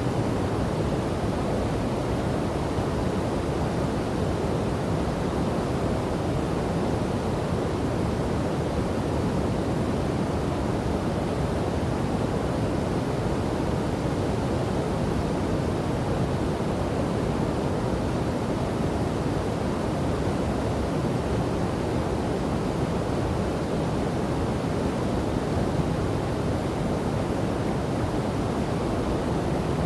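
Steady, even rush of a river and waterfall, unbroken and deep-toned.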